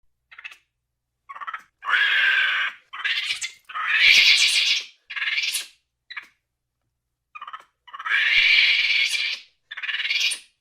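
An animal giving a series of about ten calls of varying length, from brief yelps to calls over a second long, each separated by a short silence.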